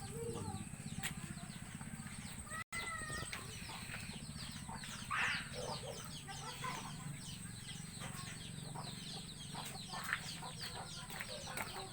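Chickens clucking and birds chirping in many short falling notes, over a steady low hum.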